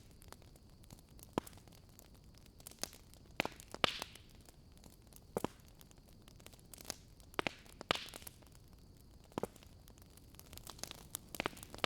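Wood fire crackling in a fireplace: irregular sharp pops and snaps over a soft hiss, with two louder hissing pops about four and eight seconds in.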